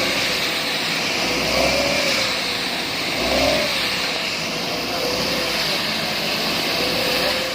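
Engine of a road construction machine running steadily, its pitch rising briefly twice.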